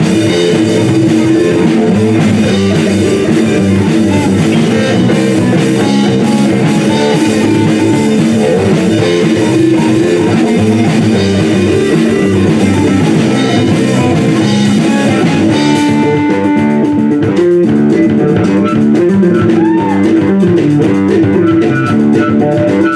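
Live rock band playing an instrumental passage on electric guitar, bass guitar and drum kit. About two-thirds of the way through the drums and cymbals drop out, leaving the guitar and bass.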